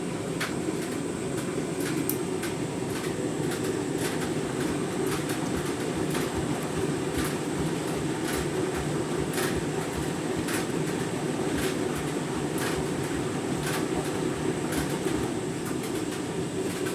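Candy washing machine running its deep rinse on a half load: a steady drum-and-water rumble, with irregular light clicks throughout.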